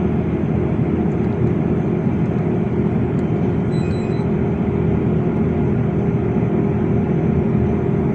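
LiAZ 5292.65 city bus under way: a steady rumble of engine and road noise, heard from inside the bus.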